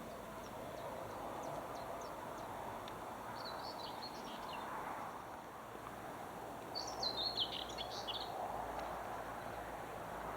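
Small birds chirping in two short bursts, the second louder, over a steady outdoor background hiss.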